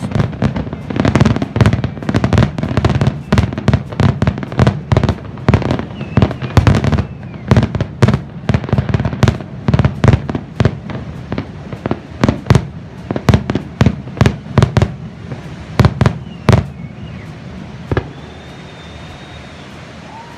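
Fireworks display: a rapid barrage of booming aerial bursts, several a second, for about sixteen seconds, then one last bang and a steady hiss.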